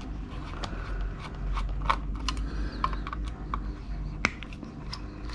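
Irregular light clicks and rattles of a screwdriver bit kit being handled as Torx bits are picked out.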